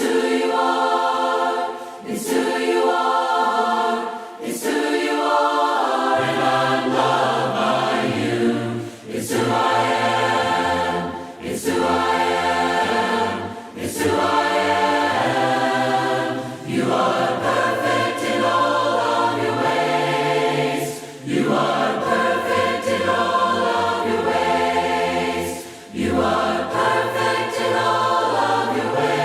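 A choir singing a hymn in harmony, in phrases of a few seconds each with short breaths between them; lower voices come in about six seconds in.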